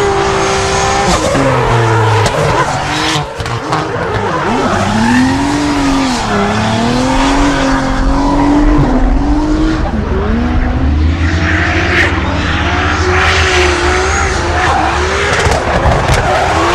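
Drift car's engine revving hard, its pitch rising and falling over and over as the throttle is worked through a drift, over a constant hiss of tyres skidding and squealing. A few sharp cracks stand out here and there.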